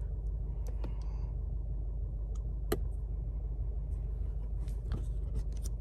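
Steady low rumble with a few light clicks scattered through it, the clearest a little under three seconds in.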